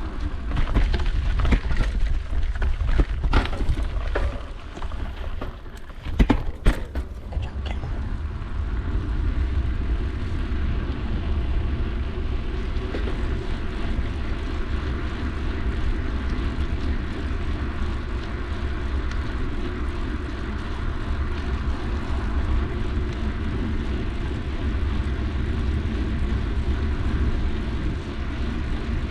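Wind and riding noise from a moving mountain bike, a steady low rumble on the GoPro's microphone. In the first several seconds there are sharp clattering knocks from the bike jolting over rough ground; after that the rumble runs on evenly.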